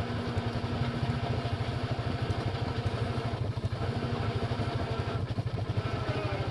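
Off-road vehicle engine idling with a steady low pulse, while an electric winch hauls in its cable to pull a stuck side-by-side out of a creek, its faint whine coming and going.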